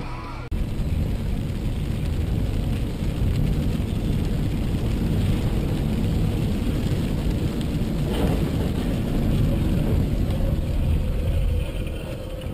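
Car driving, with engine and road noise heard as a steady low rumble from a dashcam; a burst of music cuts off about half a second in.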